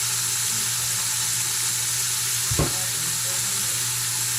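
Fried chicken frying in hot oil: a steady sizzle, with a single sharp knock of a utensil against the pan about halfway through.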